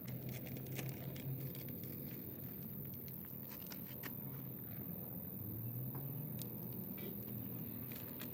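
A low, steady engine hum that rises slightly in pitch about six seconds in, with scattered light taps and clicks of hand work on metal parts.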